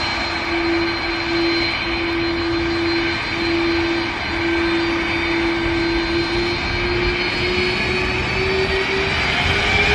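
Airbus A330-300's GE CF6 turbofan jet engines running, a loud steady jet whine over a deep rumble. The whine climbs slowly in pitch through the second half.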